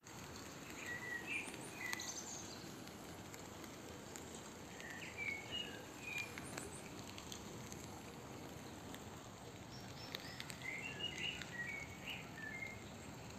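A small songbird giving three short bursts of quick chirping notes, about a second in, around the middle and near the end, over a steady outdoor hiss.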